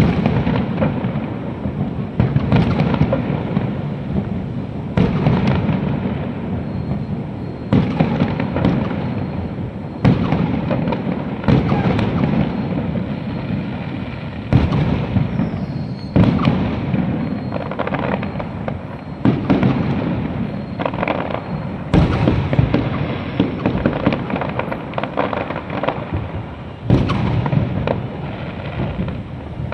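Fireworks display: aerial shells bursting with a loud bang every one to three seconds, each trailing off in a low rumble.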